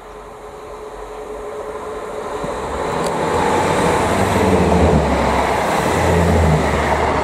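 Diesel multiple unit passenger train approaching and passing close by, its underfloor diesel engine humming under the rush of wheels on rail. The sound builds steadily and is loudest in the second half.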